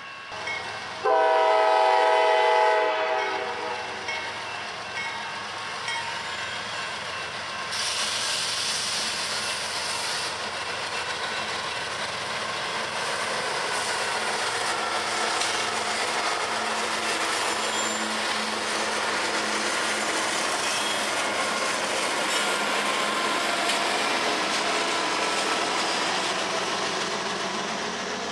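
A CSX freight locomotive's air horn sounds one chord blast about a second in, lasting about two seconds. It is followed by the steady running noise of the freight train passing, which grows louder about eight seconds in.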